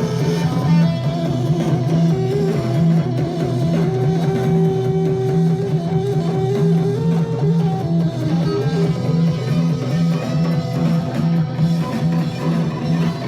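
Guitar music from a vinyl record playing on an Audio-Technica Sound Burger portable turntable: a guitar tune over a steady pulsing bass line.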